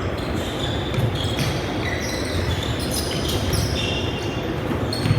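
Balls bouncing on a hard gym floor during a team ball game, with short high squeaks through the din.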